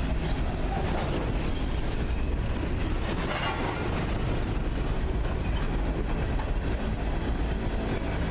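Freight train rolling past: a steady rumble of rail cars on the track.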